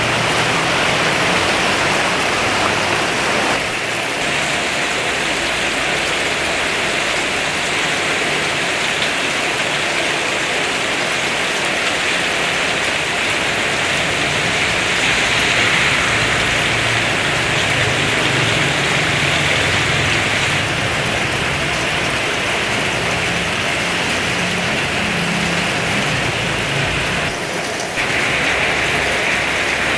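Heavy rain pouring down in a steady, dense hiss, briefly dipping in level about three and a half seconds in and again near the end.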